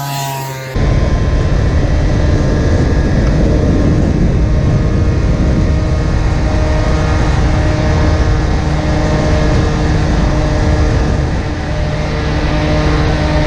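Peugeot Speedfight 100 scooter's two-stroke engine through a Tecnigas exhaust, held at a steady high-speed run under a dense rush of noise. In the first second a cleaner, rising engine note plays, then it cuts abruptly to the steady run.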